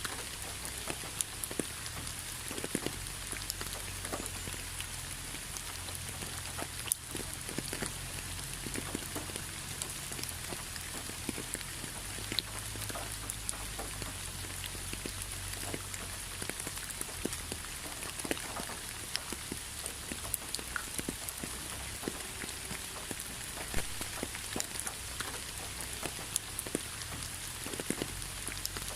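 Steady rain with many separate drops ticking irregularly onto a surface, over a low, even rumble.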